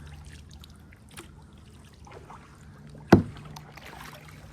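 Kayak on a river: faint water and paddle sounds over a low steady hum, with one sharp knock about three seconds in.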